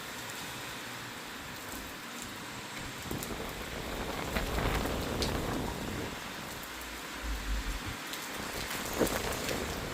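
Steady rain falling and pattering on surfaces, with a couple of brief low rumbles about halfway through and a sharp tap near the end.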